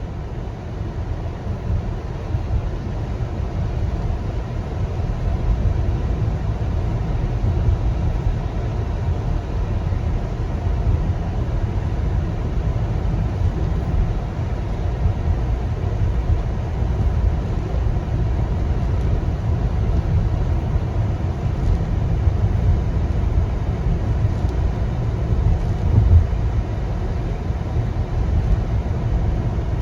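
Road noise of a car driving at highway speed: a steady low rumble of tyres and engine with a fainter hiss above it, building slightly over the first few seconds. There is a brief louder knock about 26 seconds in.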